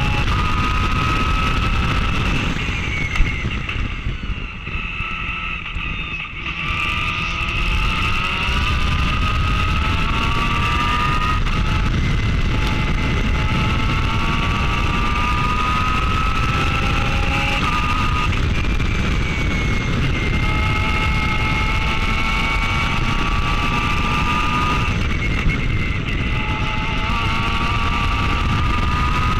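A Pro Mazda open-wheel race car's engine accelerating hard through the gears. Its pitch climbs and then drops back at each upshift. There is a single sharp knock about three seconds in, then a lift off the throttle with falling revs around five to six seconds before it pulls through the gears again.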